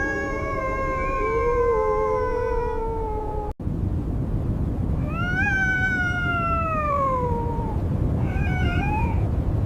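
Wolves howling over a steady low rush of blizzard wind: a long wavering howl, then after a brief break a howl that rises and then falls away, and a short high call near the end.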